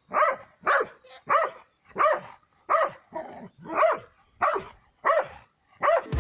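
A dog barking repeatedly: about ten short, sharp barks at a steady pace of nearly two a second.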